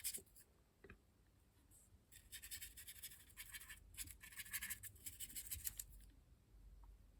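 A small brush scratching in quick strokes over the bodyside of an OO gauge model locomotive as weathering is worked on. The run starts about two seconds in and lasts nearly four seconds. There is a single light click just before it.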